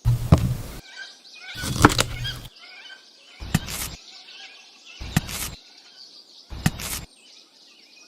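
Birds chirping, with five short, loud knocks or crashes cutting in about every second and a half.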